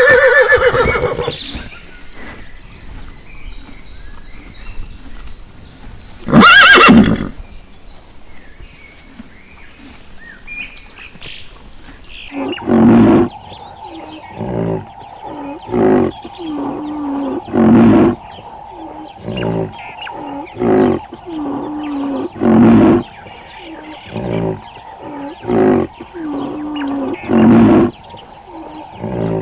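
Horse whinnying at the start and giving a loud neigh about six seconds in. From about twelve seconds a different animal calls over and over, a loud call every two to three seconds with softer ones between, over a steady hum.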